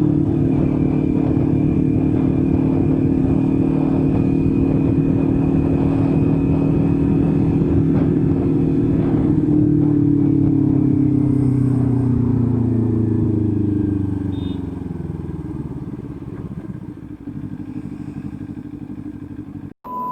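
Kawasaki Ninja 400 parallel-twin engine running at steady revs. About ten seconds in, the engine note falls as the bike slows, and the sound grows quieter over the last few seconds.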